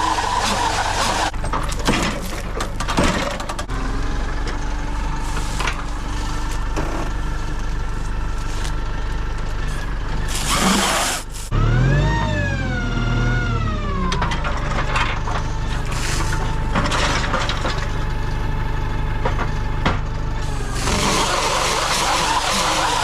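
Tractor engine running under load in several cut-together stretches. About twelve seconds in, its pitch rises and then falls.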